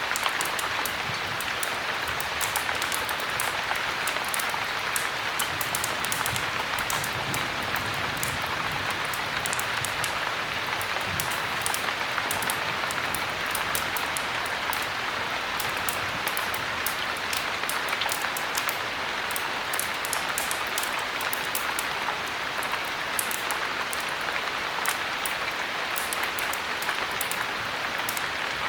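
Heavy rain: a steady, even hiss of downpour with many small sharp ticks of drops scattered through it.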